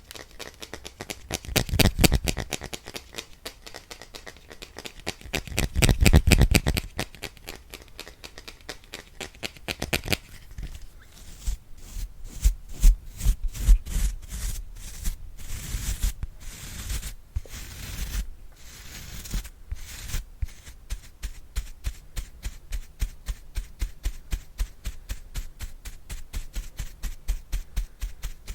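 ASMR brush bristles swept over the microphone in quick repeated strokes, several a second, with two louder swells near the start. About ten seconds in the strokes turn sparser and sharper, then settle into quick, even strokes.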